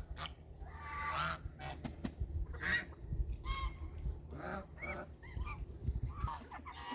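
Domestic ducks calling: a string of short, pitched calls spaced irregularly, with a steady low rumble underneath.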